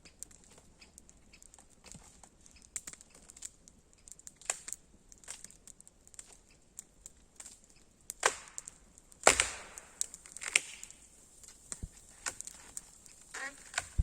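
Firewood being chopped and broken by hand: scattered light wooden cracks and knocks, with a few heavier strikes between about eight and ten and a half seconds in.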